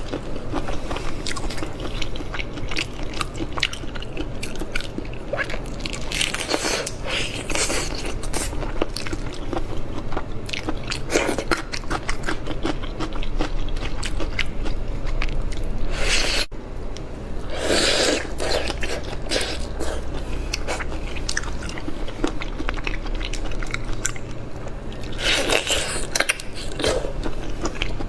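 Close-miked mukbang eating of marinated shrimp: steady biting, crunching and wet chewing, with a few louder wet stretches and one abrupt cut partway through.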